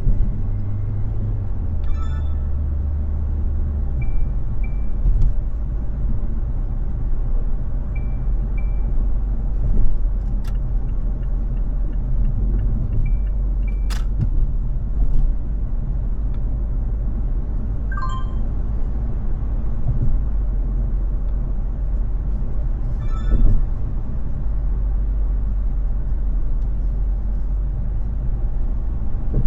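Steady low rumble of a car driving through slow, busy city traffic, its engine tone shifting a couple of times early on. A few brief pitched sounds from the traffic cut through, along with several short double beeps and a couple of sharp clicks.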